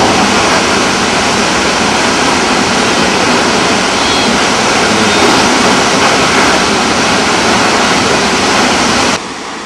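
The Krimml Waterfalls, swollen with snowmelt, give a loud, steady rush of falling water. It cuts off suddenly about nine seconds in, leaving a much fainter hiss.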